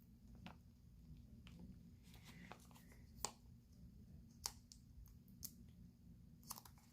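Faint, sparse clicks and taps of small nail-art tools being handled, with a brief scratchy rustle about two seconds in, over a low steady hum.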